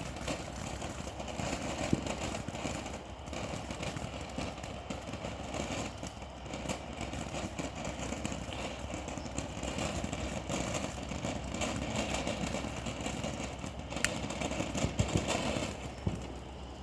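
A lit firework burning with a steady hiss, scattered with sharp crackles and pops.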